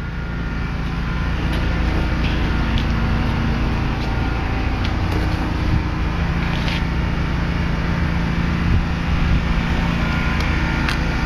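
Caterpillar G3406 naturally aspirated gas engine, an inline six, running steadily. It grows louder over the first two seconds, then holds an even level.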